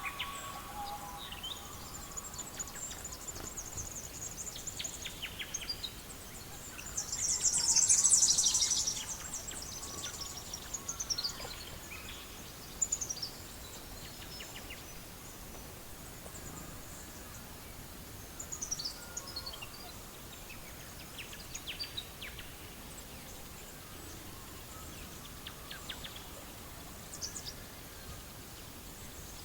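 Wood fire crackling with scattered small pops over a soft steady hiss, with birds chirping over it. About seven seconds in there is a louder, high-pitched burst lasting about two seconds.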